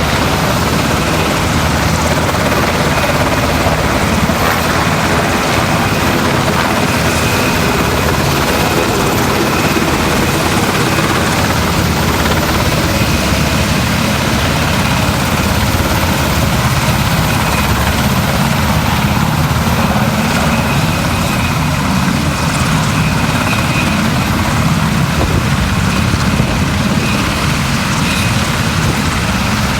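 Helicopter running, a loud, steady mix of rotor and engine noise with a faint high whine coming and going.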